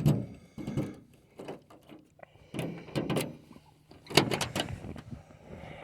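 Knocks and clunks around an old Ford F-150 pickup, typical of its door being handled. There are about six separate knocks, the loudest a close pair about four seconds in, and the engine is not yet running.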